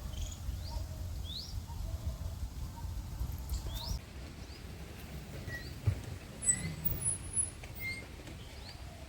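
Short, high rising chirps from small animals, repeating about once a second, with a few brief thin whistles about six to eight seconds in. A low rumble of wind on the microphone runs through the first half.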